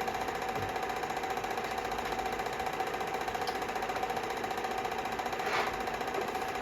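A steady mechanical hum with one constant tone, and a short rushing noise about five and a half seconds in.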